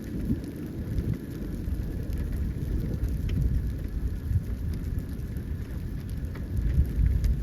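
Storm noise: a constant low, uneven rumble of wind and rain, with scattered ticks of raindrops.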